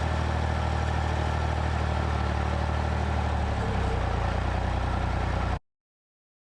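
Vehicle engine running at a steady idle, its pitch shifting slightly about three and a half seconds in, then cutting off suddenly near the end.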